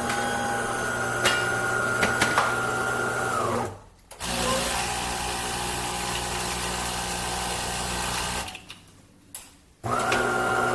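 De'Longhi Dinamica fully automatic espresso machine running its shutdown cycle: a motor whines steadily for about four seconds and winds down, then after a brief pause a steady hissing run lasts about four seconds. After another pause and a click, the motor whine starts again near the end.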